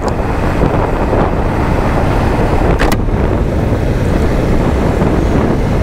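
Wind buffeting the microphone on a moving motorcycle, a steady loud rush with the bike's running and road noise underneath. A short click about three seconds in.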